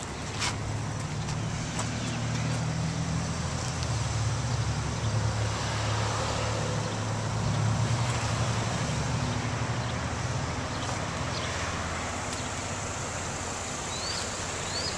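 A car engine running at low revs with a steady low hum that swells to a peak about eight seconds in and then eases off. Three short rising chirps sound faintly near the end.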